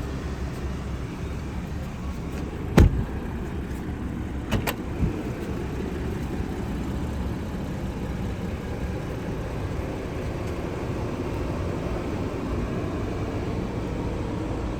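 A car door of a 2022 Lincoln Aviator shuts with a single loud thud about three seconds in, followed a couple of seconds later by a few softer knocks. A steady low rumble runs underneath.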